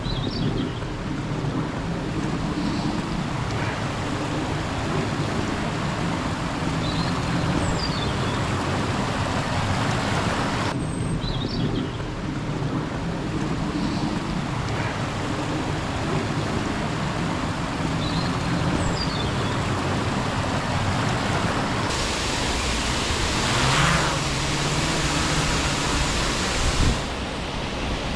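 Waterfall roaring: a steady rush of falling water, with a few small bird chirps over it. The sound changes abruptly twice, at about a third and two-thirds of the way through.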